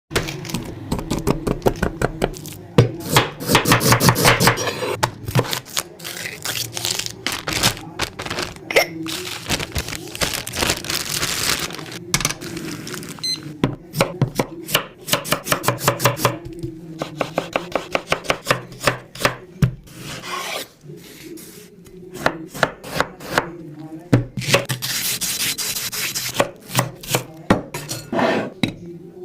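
Knife chopping food on a cutting board, in quick runs of sharp strokes with short pauses between them, over a steady low hum.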